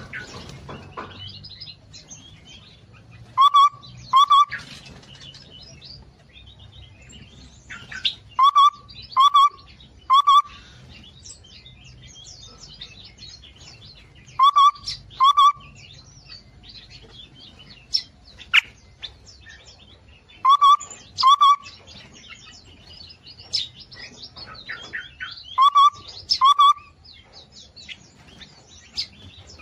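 Several small songbirds calling and twittering together, with a loud, clear two-note call repeated about every five or six seconds over a steady background of quick high chirps.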